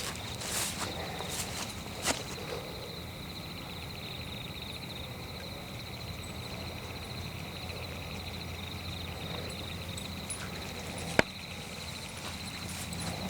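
Night-time forest ambience: a steady, pulsing insect chorus with a few footsteps on the forest floor in the first couple of seconds, and a single sharp crack about eleven seconds in.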